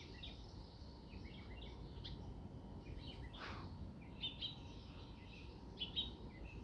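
Small birds chirping and singing faintly, in short repeated phrases, with a couple of brighter bursts of chirps about four and six seconds in, over a steady low outdoor rumble.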